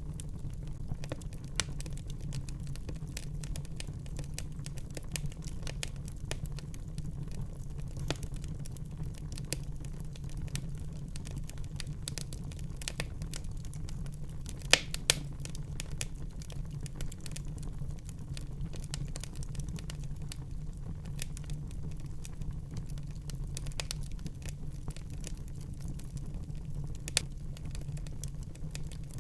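Wood fire burning in a fireplace: a steady low rumble of the flames with irregular crackles and pops, the loudest two close together about halfway through and another near the end.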